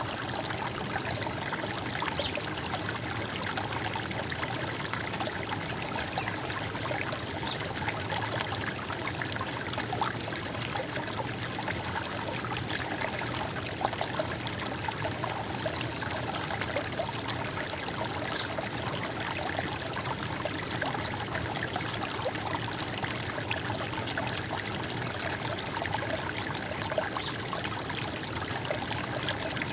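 Running water gurgling steadily, an even splashing trickle with no pause or change.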